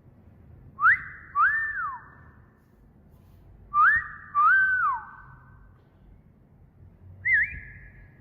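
Wolf whistles, twice: each a rising note followed by a note that rises, holds and falls, with an echoing tail. A short wavering whistle follows near the end.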